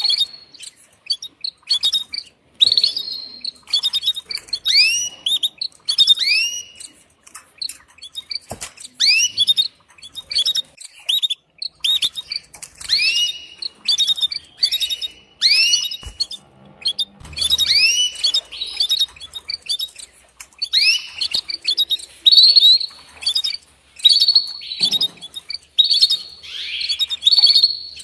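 Female canary calling in a quick series of short chirps, many sweeping up and back down in pitch, with a faster run of notes near the end. This is the hen's mating call to a male.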